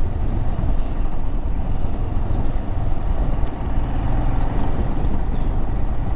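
Adventure motorcycle riding on a paved road: the engine running steadily with road noise.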